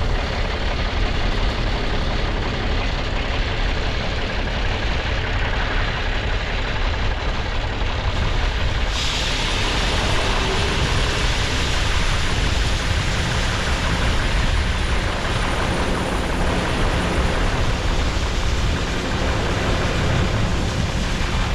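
Steady low rumble of heavy farm machinery running, with a hiss that jumps up sharply about nine seconds in.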